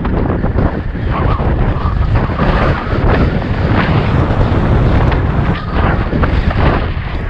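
Wind buffeting the microphone of a camera riding along on a moving bicycle: a loud, steady rushing with constant low rumble and rapid flutters.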